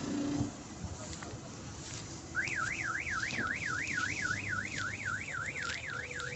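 Electronic warbling alarm tone, like a car alarm or a siren-style horn, starting a little over two seconds in and sweeping quickly up and down about three times a second over a steady background of machinery and field noise.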